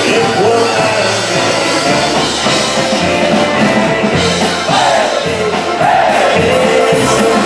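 Live polka band playing a polka, with a steady bouncing bass beat under the melody.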